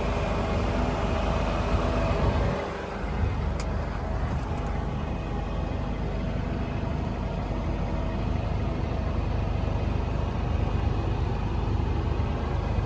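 Scania R124 truck's diesel engine running; its brighter upper sound falls away about two and a half seconds in, and it then runs on steadily.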